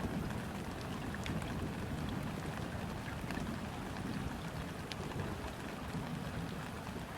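Gentle rain falling on a river's surface: a steady hiss dotted with scattered sharp drop ticks, over a low, uneven rumble.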